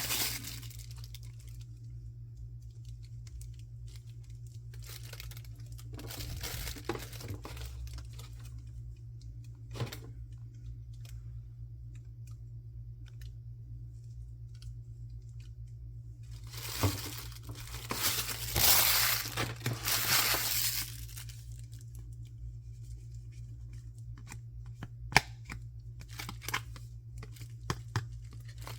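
Packaging being opened by hand: a wrapper torn and crinkled in one long loud stretch about halfway through, with shorter rustling earlier and a few sharp clicks near the end.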